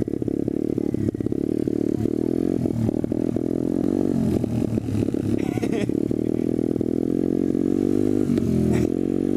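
SSR125TR pit bike's single-cylinder four-stroke engine running under way off-road, its pitch rising and falling with the throttle. A few clatters and scrapes come near the start.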